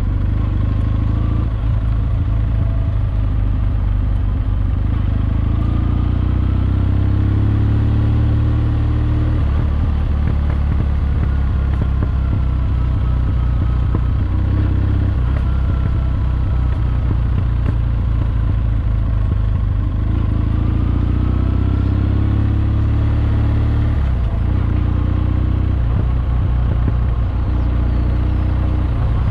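Kawasaki W650's air-cooled parallel-twin engine running steadily while riding, its low exhaust note shifting with the throttle a couple of times.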